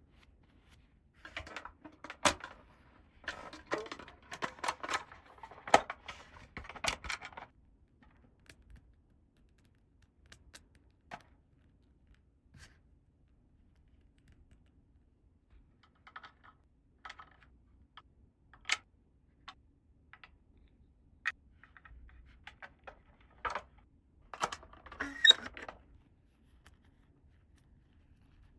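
Small plastic toy pieces being handled: a run of clicking and rattling with light rustling, then scattered single taps, and a second short burst of clicking near the end.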